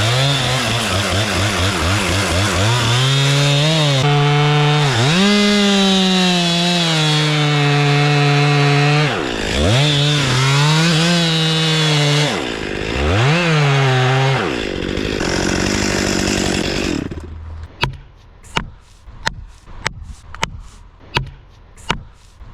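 Two-stroke chainsaw cutting into a large tree trunk for a felling cut, its engine note sagging under load and picking up again twice before it stops. It is followed by a run of sharp knocks, about two or three a second.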